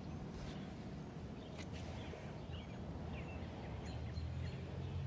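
A few faint bird chirps over a low, steady rumble that grows a little louder near the end.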